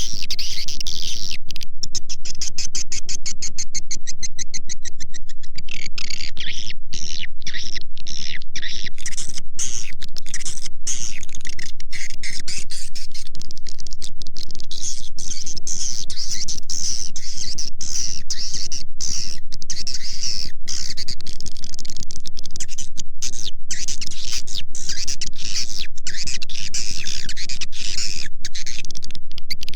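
Looped lure recording of edible-nest swiftlet calls: a dense, continuous twittering of high chirps, chopped by frequent short gaps, over a steady low tone. It is a call track played to draw a swiftlet colony into a swiftlet house.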